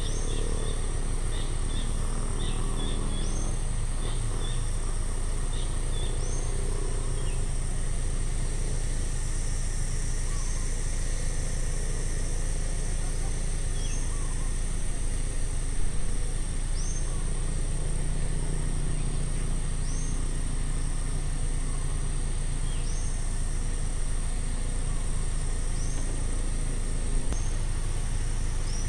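Outdoor ambience: a steady high insect drone, with a bird repeating a short high call about every three seconds and a few quick chirps in the first seconds, over a steady low rumble.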